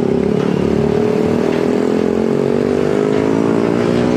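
Truck engine working under load, its pitch rising slowly and steadily as the revs climb.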